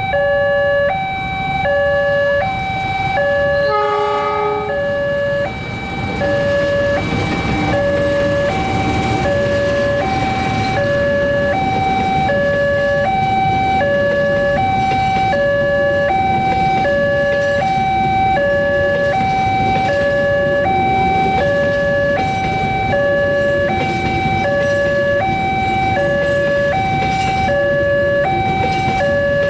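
Railroad level-crossing warning alarm sounding continuously: two electronic tones alternating, high then low, about once a second, over a steady rumbling noise. A short run of falling tones cuts in about four seconds in.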